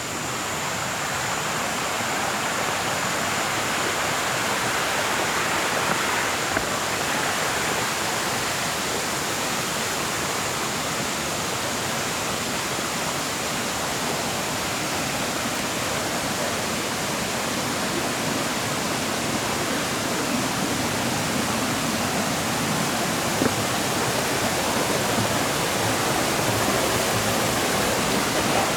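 Shallow water rushing and cascading steadily over rocks in a forest stream: a continuous, even rushing noise.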